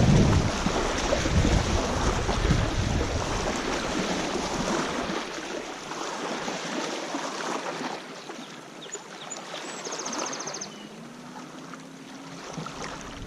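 Wind buffeting the microphone over the wash of river water along the shore; the low rumble of the wind drops away about five seconds in, leaving the lighter water noise.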